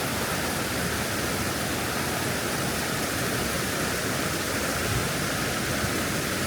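Waterfall water rushing, a steady even roar.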